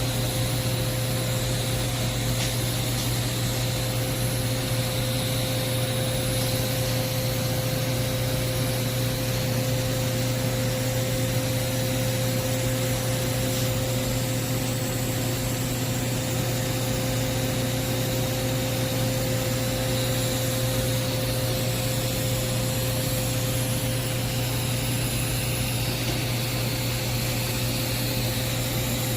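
TIG welding on carbon steel pipe: a steady hum with an even hiss and faint high whine that runs without a break, the arc and welding machine running through a cap pass.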